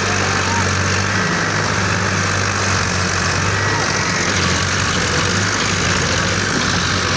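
Tractor engine running at a steady, low pitch.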